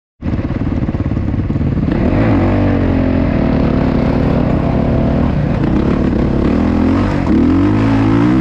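Motocross bike engine running loud, revving up and easing off several times.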